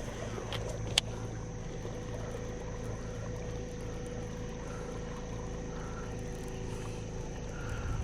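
A boat's motor humming steadily, with one sharp click about a second in.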